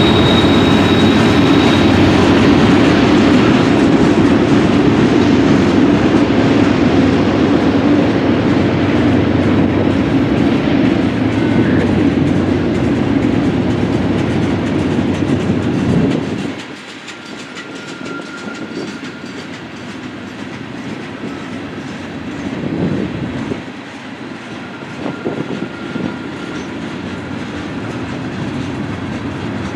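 Loaded open-top hopper cars of a freight train rolling past, their wheels clattering over the rail joints, with faint brief wheel squeals. The heavy rumble drops off suddenly about halfway through, leaving a lighter clatter.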